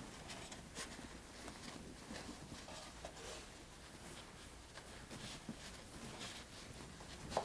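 Faint rustling and rubbing strokes of a rag wiping up spilled engine oil, with a sharper click near the end.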